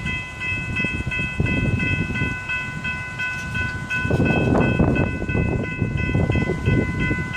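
Electronic grade-crossing warning bell ringing at a steady rate of about three strokes a second, signalling a train on the approach. Under it, a low rumbling noise grows louder about four seconds in.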